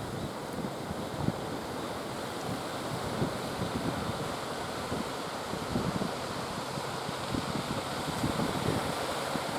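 Sea waves washing, with wind buffeting the microphone in uneven gusts.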